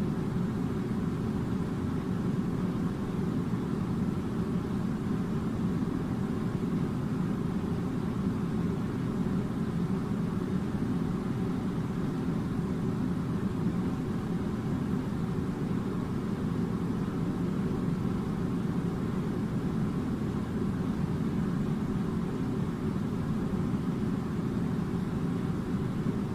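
Air conditioning running with a steady, low rumbling hum that does not change.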